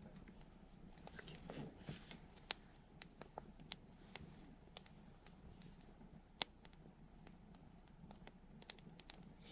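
Wood campfire crackling faintly: scattered sharp snaps and pops at irregular intervals, two louder ones about two and a half and six seconds in, over a soft steady hiss.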